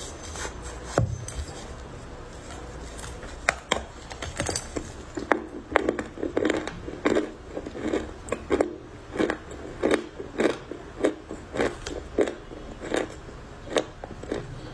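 Crunchy dry clay being bitten and chewed close to the microphone: a few sharp cracks at first, then steady crunchy chewing a little under two chews a second.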